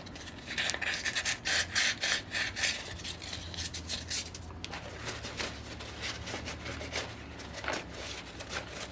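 Rapid, irregular rubbing and scraping strokes on parts of a disassembled model glow engine. The strokes are busiest in the first half and thin out later.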